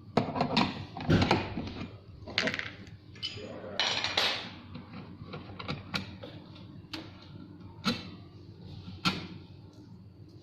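Irregular clicks, knocks and rustling from parts of a 12-volt electric ride-on toy truck being handled during assembly. The rustling is busiest in the first few seconds; single sharp knocks come every second or two after that.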